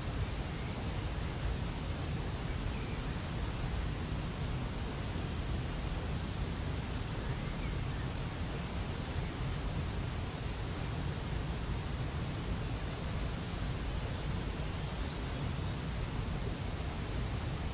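Waterfall rushing steadily, with a small bird chirping short high notes again and again over it.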